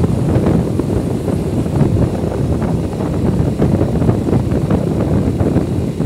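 Wind buffeting the microphone on a moving motorcycle, a loud, steady low rumble that covers the engine and road noise.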